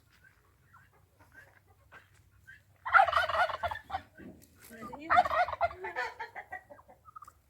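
Farm fowl calling: two loud, rapid, rattling calls about a second each, the first about three seconds in and the second about five seconds in.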